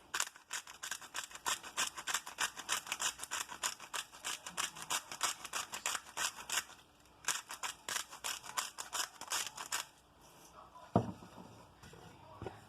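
Sea salt being dispensed: rapid, regular scratchy clicks, about seven a second, with a short pause about seven seconds in, stopping around ten seconds. A single knock follows near the end.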